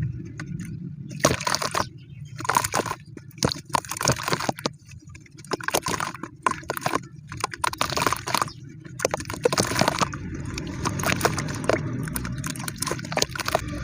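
Crumbly cement-like material being crushed and crumbled: dense, irregular crunching and crackling with short pauses, busier in the later part.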